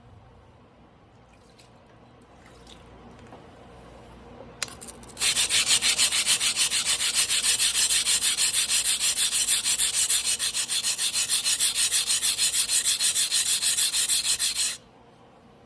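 Blue-steel yanagiba blade being stroked back and forth by hand on a wet whetstone: a steady run of quick, even grinding strokes starts about five seconds in, after a single tap, and stops suddenly near the end.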